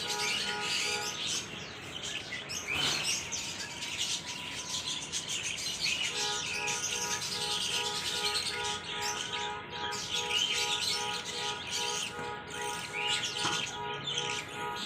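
Continuous dense chirping and tweeting of many birds, over background music with held notes.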